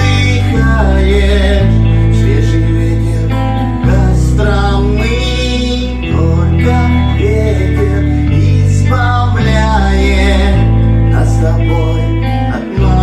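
Band music with bass, drums and electric guitar: the bass holds long low notes that change every second or two, with a melody line above.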